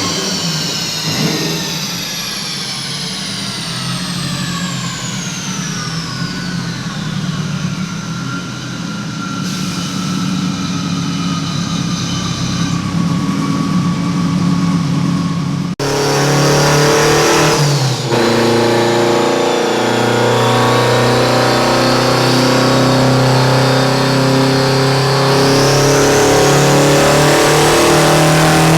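Subaru WRX STI's turbocharged flat-four on a chassis dyno: engine and rollers winding down, with several whines falling slowly in pitch. After an abrupt cut about halfway, the engine runs at a steady speed, and a high whine rises near the end.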